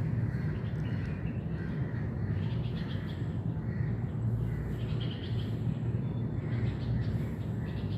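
Outdoor ambience: a steady low rumble with faint bird chirps over it.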